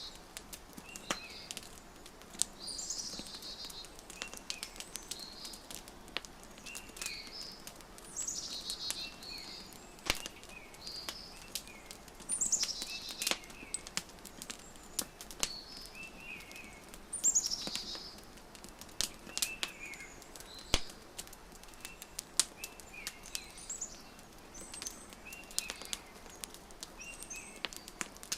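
Songbirds calling: a falling, trilled phrase repeats every four or five seconds, with short chirps in between. Scattered sharp pops and crackles of a wood fire run underneath.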